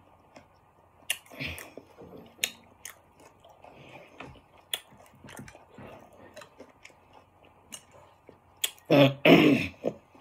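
Close-miked chewing and mouth sounds of someone eating, with sharp smacks and clicks scattered throughout. Near the end comes a louder vocal sound, about a second long.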